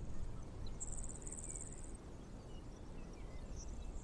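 A cricket trilling for about a second, over faint low background rumble.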